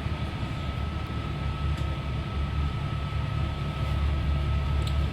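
Inside a moving Northern Ireland Railways Class 3000 diesel multiple unit: a steady low rumble of the engine and running gear, with a thin high hum held throughout and a few faint ticks near the end.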